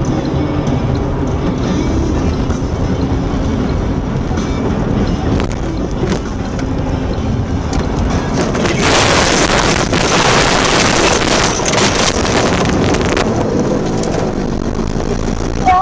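Car running on the road, a steady engine and road rumble, with a loud hissing rush for about four seconds past the middle.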